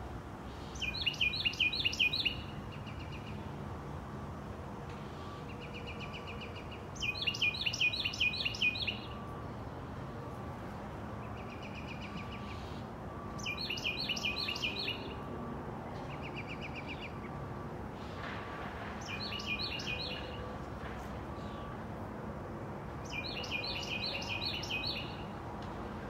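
A songbird singing the same short phrase of rapid repeated high notes, five times about six seconds apart. Between the phrases a faint lower note repeats about once a second, over steady background noise.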